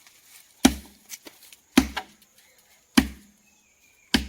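Heavy chopping blows from a hand tool, four strong strikes about one a second, each a sharp crack with a dull thud, with a couple of lighter knocks between them.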